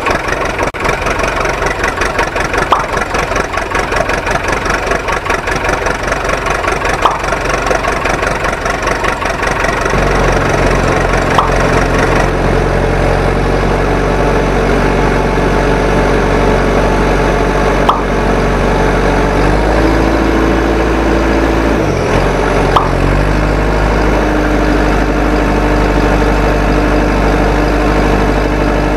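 Heavy diesel engine running steadily, deepening and steadying about ten seconds in, with its pitch briefly dipping and coming back up around two-thirds of the way through. Faint sharp ticks come every four or five seconds.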